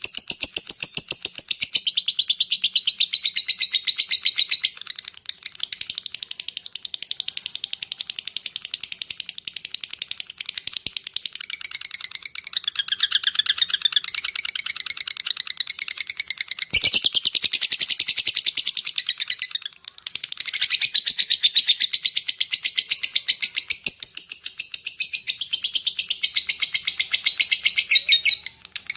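Lovebird chattering in a long, rapid run of high ticking chirps, broken by a few short pauses: the 'ngetik' and long 'ngekek' call used to lure other lovebirds.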